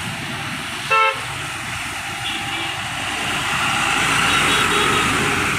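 Road vehicle running steadily, with a single short, loud horn toot about a second in and a couple of fainter horn tones later.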